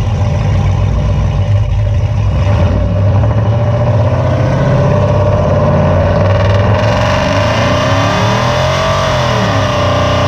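Cammed 6.0-litre V8 of a Chevy Silverado SS running loud through long-tube headers and straight pipes, with no muffler. The engine note climbs slowly and wavers up and down near the end.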